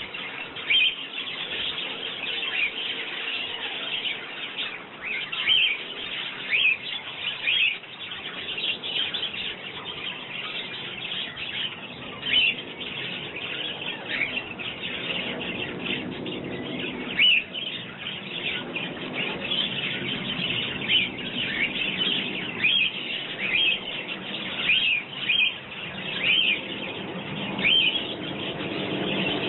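Sparrows chirping repeatedly at a garden feeder: a steady stream of short, high chirps, several a second at times.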